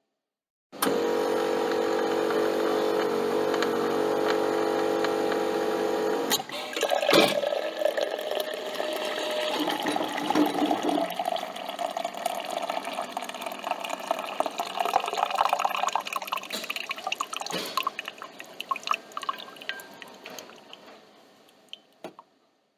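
Coffee machine humming steadily for about five seconds, then a click, followed by liquid gurgling and splashing that gradually thins out into drips.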